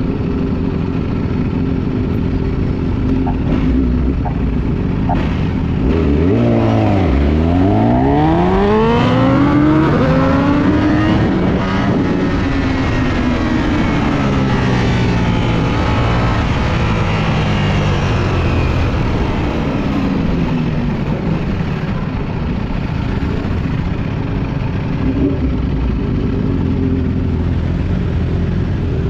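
Ducati Panigale V4S's V4 engine under way. Its pitch drops to a low point about seven seconds in, then climbs through several rising sweeps before settling into steadier running, over continuous road and wind noise.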